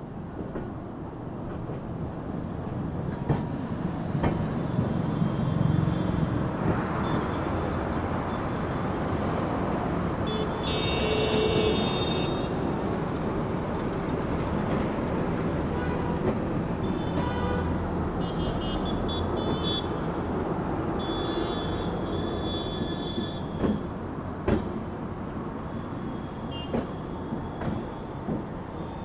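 Passenger train coach running along the track, a steady rumble of wheels on rails. A few sharp clicks and brief high-pitched squeals come about ten seconds in and again about twenty seconds in.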